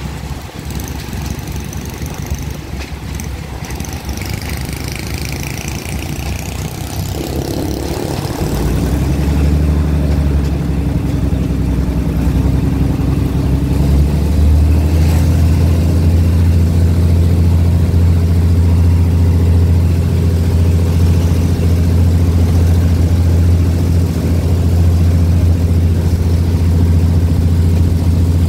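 Diesel train running, heard from inside a passenger carriage. About seven seconds in the engine note comes up into a steady low hum with overtones, growing louder until about fourteen seconds in and then holding level as the train runs on.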